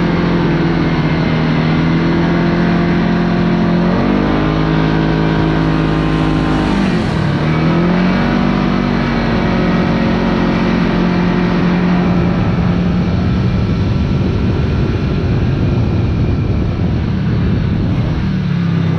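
Kawasaki Teryx KRX side-by-side engine running under way on the trail, holding a steady note. About four seconds in the revs climb, drop sharply around seven seconds, then pick back up and hold steady.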